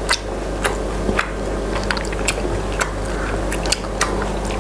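Close-up eating sounds: wet chewing and mouth smacks over cheesy instant noodles, with short sharp clicks every half second or so.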